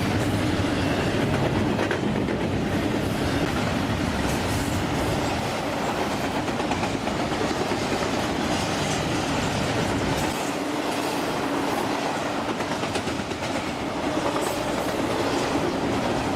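A train's cars rolling steadily past, with wheels clattering over the rail joints and a steady low hum under the rumble.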